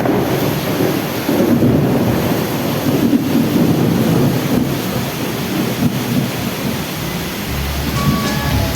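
Very heavy rain pouring down in a sudden downpour, a loud, steady rush with a deep rumble.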